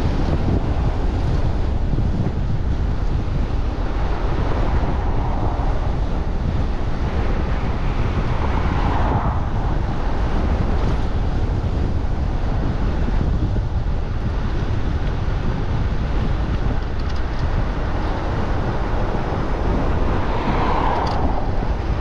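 Steady wind rumble buffeting the microphone of an e-bike rider on the move, with two brief swells about nine and twenty-one seconds in.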